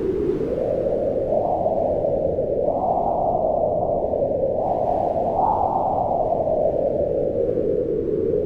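Wind blowing steadily with a deep, low rush that swells in gusts about three seconds and five and a half seconds in, then eases off.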